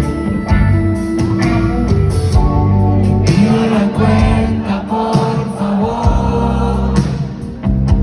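Live pop-rock band music: the opening of a song played on stage, with bass, guitar and sung voices.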